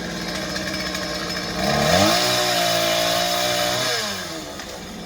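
Chainsaw engine idling, then revved up sharply just under two seconds in. It is held at high revs for about two seconds, then drops back to idle.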